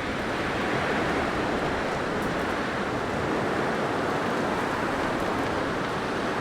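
Blizzard wind blowing in a steady rushing roar, with no gusts or pauses.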